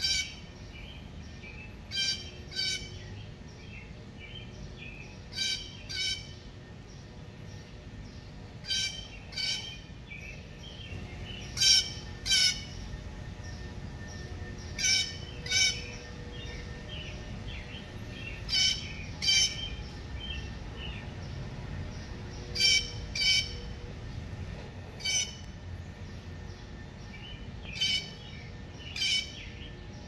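A bird in the tree gives harsh squawking calls, mostly in pairs about half a second apart, repeated roughly every three seconds. Fainter chirping from other birds runs between them.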